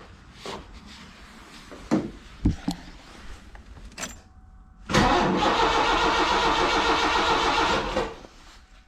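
A few clicks and knocks, then the starter cranks the 1986 Mercury Cougar's 3.8-litre V6 for about three seconds and stops abruptly, the engine not catching: the intermittent no-start.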